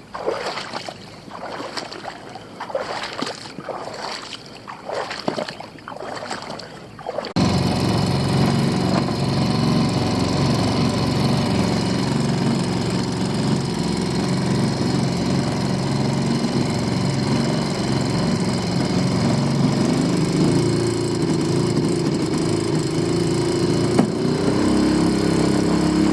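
Water splashing and sloshing around a small boat being walked out through shallows, then a small boat's outboard motor running steadily, its revs rising in two steps near the end.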